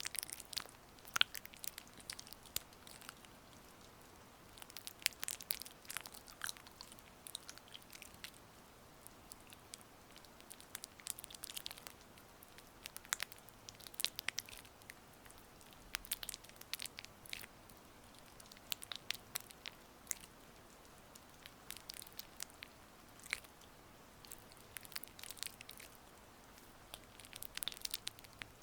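Gua sha tool gliding over oiled skin, making soft wet, sticky crackling clicks that come in short clusters every second or so.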